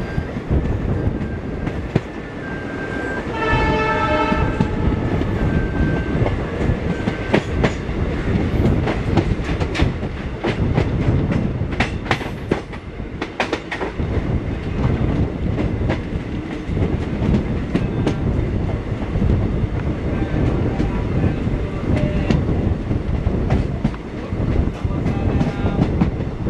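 Passenger train running, heard from on board: a steady rumble with wheels clattering over rail joints. A horn sounds once for about a second, about three seconds in.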